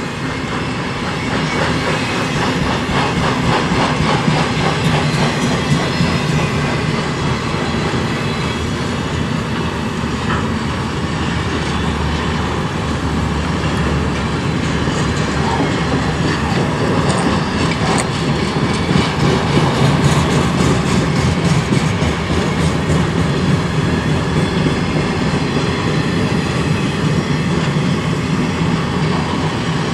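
Freight train cars rolling steadily past, the wheels clicking over the rail joints in a continuous clickety-clack.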